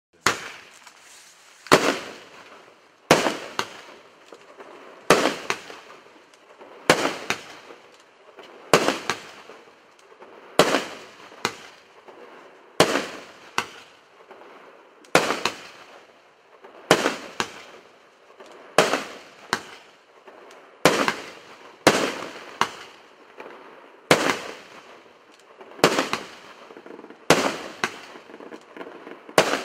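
Fireworks going off in a steady series: a sharp bang every one to two seconds, each fading out over about a second before the next.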